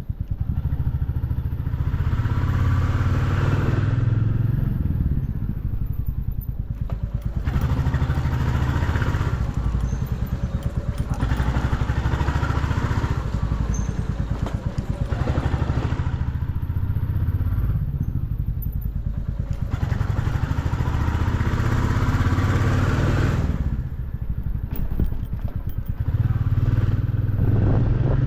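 Motorcycle engine running while riding, its note swelling and easing every few seconds as the throttle opens and closes.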